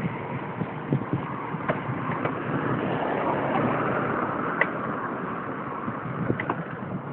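Mountain bike being ridden along a dirt trail: a steady rush of wind on the microphone and tyre noise, with scattered clicks and knocks from the bike rattling over bumps.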